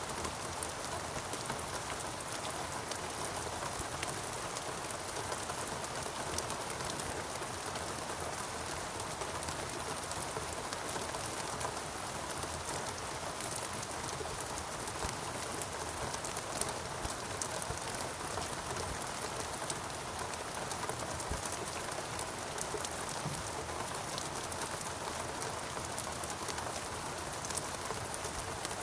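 Steady rainforest rain, an even wash of falling water with fine patter of individual drops, with a bird calling faintly.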